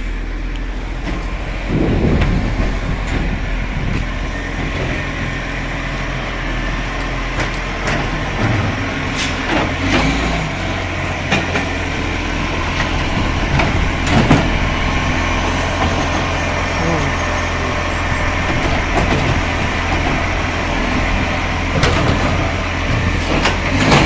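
Motor vehicle running steadily with road noise, its low engine hum settling into a steadier drone about ten seconds in, with a few sharp clicks and knocks.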